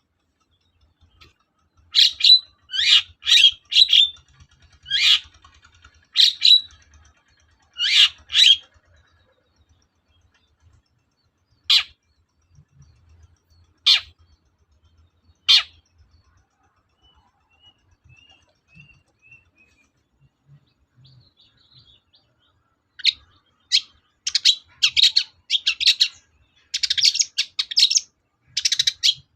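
Long-tailed shrike (cendet) singing: clusters of short, loud calls, then a few single sharp notes, a faint soft twitter, and a dense run of rapid calls near the end.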